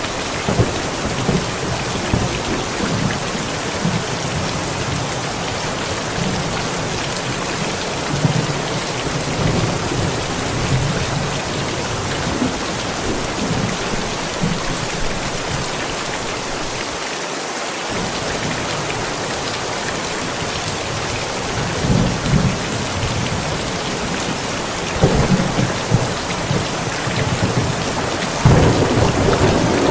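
Steady rain falling, with thunder rumbling low several times; the loudest roll of thunder swells up near the end.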